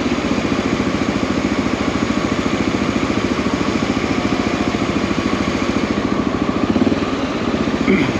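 Honda XR dual-sport motorcycle's single-cylinder engine idling steadily, an even, rapid putter with no revving.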